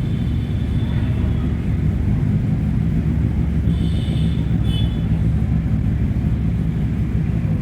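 Superbike engine running at steady revs, a low, even rumble.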